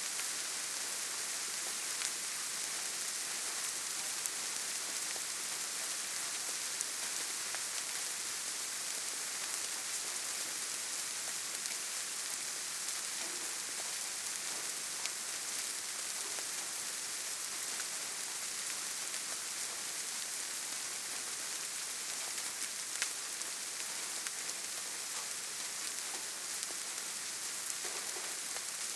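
Steady rainfall, an even hiss of rain with scattered individual drops ticking through it.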